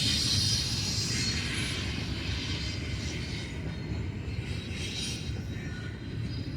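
Long BNSF freight train rolling past: a steady low rumble of wheels on rail under a high hiss that fades over the first few seconds. Faint wheel squeal comes in near the end.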